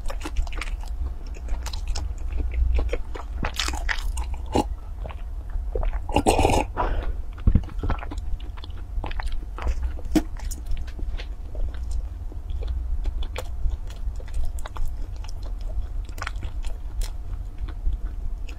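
Close-miked mouth sounds of a person biting and chewing food, a string of small clicks and crunches, with one louder crunching bite about six and a half seconds in.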